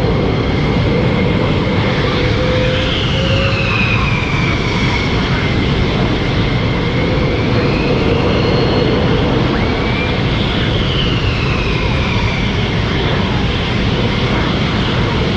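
Aircraft engine performing overhead, loud and steady, with a high whine that rises and falls twice as the plane passes and turns.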